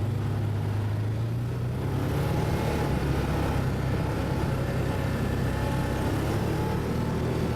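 ATV engine running at a steady speed, a low, even drone.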